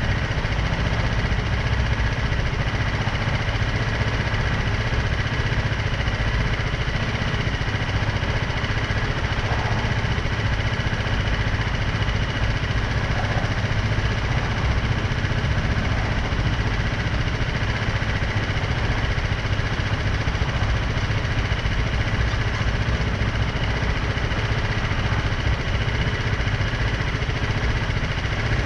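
BMW G310R's single-cylinder engine running steadily, with no revving or changes in pitch.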